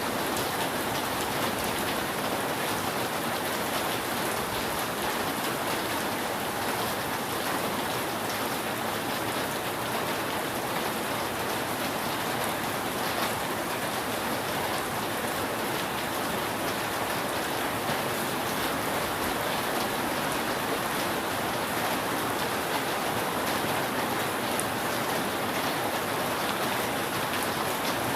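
Steady rain falling on a roof: an even, unbroken hiss of drops with no rise or fall.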